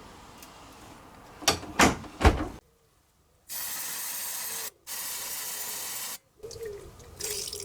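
Three knocks, then two long bursts of spray hiss, each over a second, starting and stopping sharply, with a short break between them.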